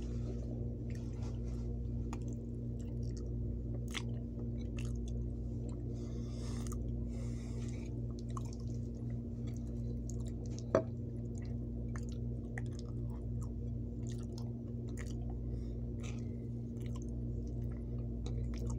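Close-up chewing and wet mouth sounds of a person eating beans, mashed potatoes and roast, with many small clicks and smacks. A single sharp click stands out about halfway through, and a steady low hum runs underneath.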